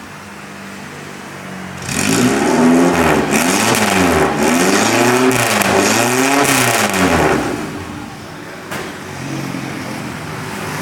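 Suzuki Katana's four-cylinder engine through a straight-pipe exhaust with no resonator or muffler, idling, then revved up and down about four times in quick blips before settling back to idle. The open pipe gives it a very aggressive note.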